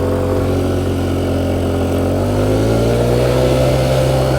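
Motorcycle engine under way, its note climbing slowly and steadily as the bike accelerates.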